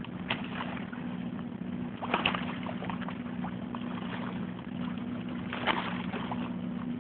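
Steady low two-note hum, with a few sharp clicks and knocks about a third of a second, two seconds and near six seconds in.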